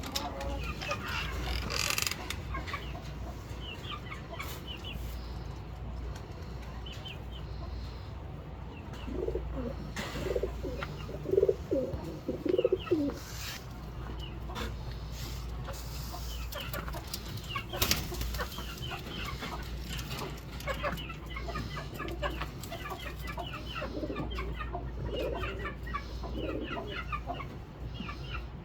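Chickens clucking amid many small birds chirping, with a louder run of low calls about ten to thirteen seconds in, over a steady low hum.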